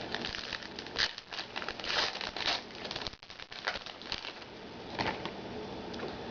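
Trading-card pack wrapper crinkling and cards being handled, in irregular bursts of rustling, strongest in the first half.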